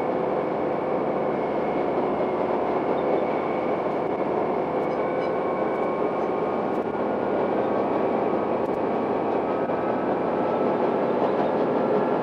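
Akechi Railway diesel railcar Akechi 102 running along the line, heard from inside the car: a steady, even rumble of engine and wheels with a few faint steady tones over it.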